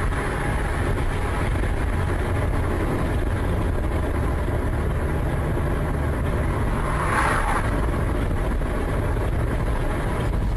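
Motor vehicle on the move: steady engine and road noise, with a brief louder rush about seven seconds in.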